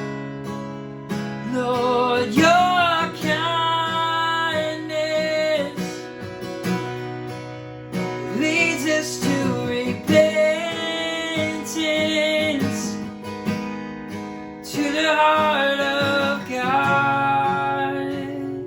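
Acoustic guitar strummed under a voice singing a worship song in three long sung phrases.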